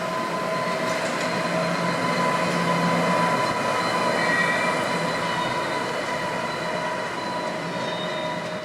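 A train running through the station, its sound swelling to a peak a few seconds in and then easing off, with steady high squealing tones from the wheels over the rail noise.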